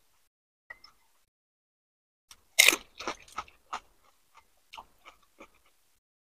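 A crisp pani puri shell crunched in the mouth about two and a half seconds in, followed by a run of crunchy chewing that gets fainter.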